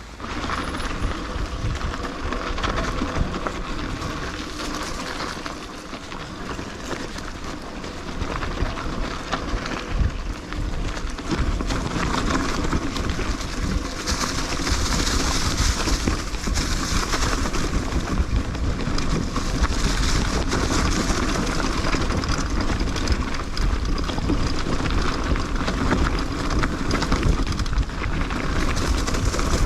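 Mountain bike descending a rough forest trail: a steady rushing, rattling noise of tyres on the ground and the bike shaking, with a deep rumble, which comes up sharply at the start.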